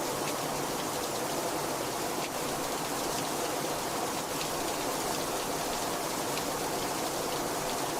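Steady heavy rain, an even hiss with faint scattered drop ticks.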